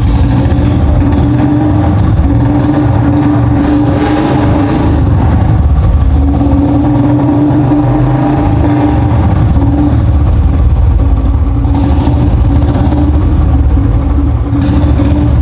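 Royal Enfield Bullet 350's single-cylinder engine running steadily while oil is fed into its carburettor to burn off carbon deposits.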